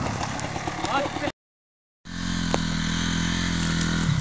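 Enduro dirt-bike engine running at uneven revs, then a brief total dropout, then a steady, even engine note of a motorcycle running at low revs.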